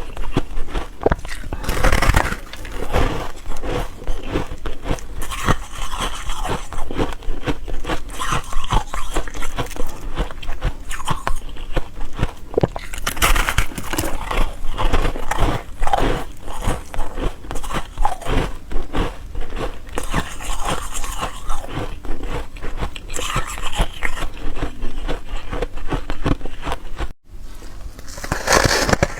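Ice being bitten and chewed close to the microphone: dense, irregular crunches that go on without a break, except for a brief sudden drop-out near the end.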